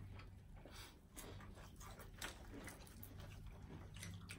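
Faint chewing, mouth clicks and lip smacks of several people eating fried chicken and fries with their hands, over a low steady hum.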